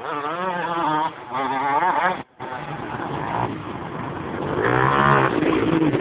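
Dirt bike engine revving hard under load while climbing a steep dirt bank, its pitch wavering quickly up and down as the throttle is worked. The sound cuts out briefly a little over two seconds in, and the revs rise and fall again near the end.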